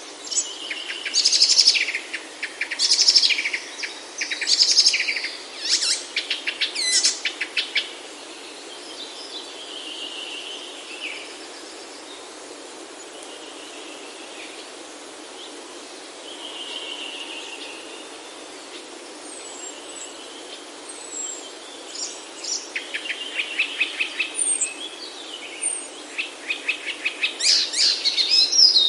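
Wild birds singing and calling: loud bursts of fast, rapidly repeated high notes in the first seven seconds and again near the end, with softer whistled phrases in between.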